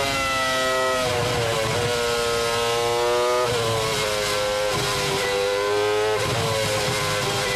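A 2004 McLaren Formula One car's Mercedes V10 engine heard from onboard at racing speed. Its high-pitched whine falls and climbs several times, with sudden steps in pitch at the gear changes.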